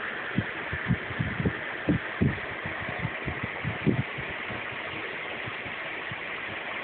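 Irregular soft, low thumps over a steady hiss, stopping about four seconds in.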